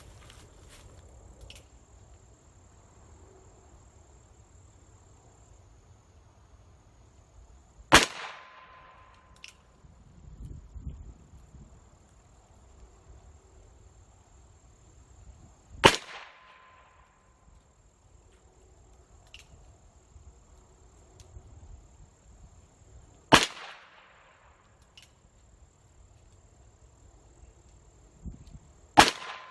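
Four single revolver shots from an Uberti Lightning .38 Special, fired slowly about seven to eight seconds apart. Each is followed by a brief ring from a metal gong target being hit. A steady high insect buzz runs underneath.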